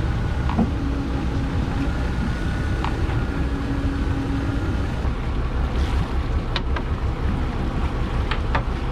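Small fishing boat at sea: a steady low engine rumble with wind and water noise, a faint hum coming and going in the first half, and a few light clicks near the end.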